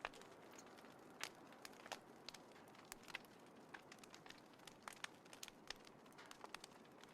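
Small wood fire crackling in a compact folding fire pit: irregular sharp pops and snaps, a dozen or more, over a soft steady hiss.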